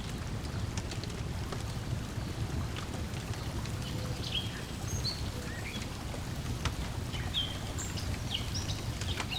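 Layered lakeside ambience: a steady low wash of lapping lake water, a wood fire crackling with scattered sharp pops, and birds chirping in short calls through the middle.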